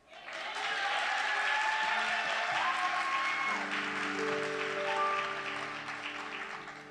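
Audience applauding after a child's recitation, the clapping fading toward the end, while sustained instrumental chords come in about two seconds in.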